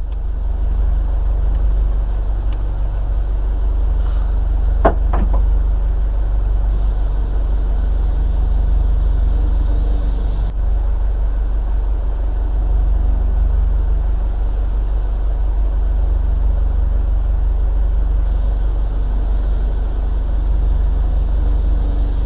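Sailing boat's inboard engine running steadily with a low drone, run to charge the boat's battery. A brief high chirp sounds about five seconds in.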